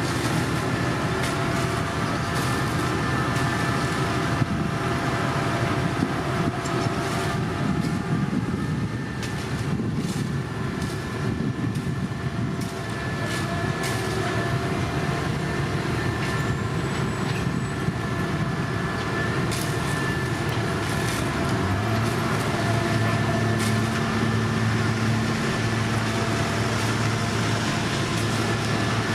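Heavy diesel construction machinery running steadily, with scattered sharp clicks and rattles. About two-thirds of the way through, a deeper steady engine note comes in on top.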